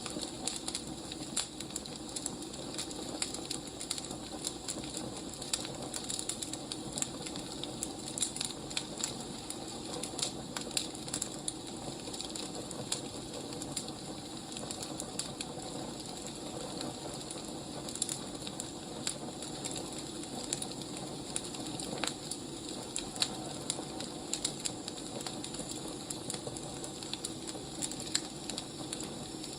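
Firewood burning: a steady low rush with irregular snaps and crackles throughout.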